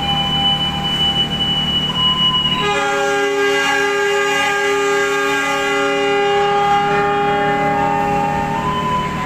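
Diesel locomotive horn sounding one long blast of several tones at once, starting just under three seconds in and lasting about six seconds: the semboyan 35 signal that the train is ready to depart. Before it a single high steady whistle tone sounds, over the low hum of the idling locomotive.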